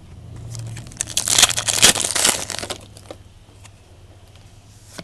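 Crinkling of a trading-card pack wrapper being handled and torn open, a dense crackly burst of about two seconds starting about a second in, with light clicks from the cards.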